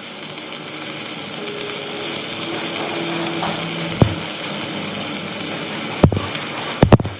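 Workshop tool noise: a steady mechanical hiss with a faint hum, broken by sharp knocks, one about four seconds in, another about six seconds in and a quick pair near the end.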